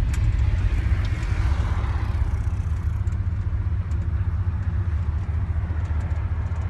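A 1979 Ford F150 pickup driving, heard from inside the cab: a steady low engine and road rumble, with a higher road hiss that eases off after about two seconds.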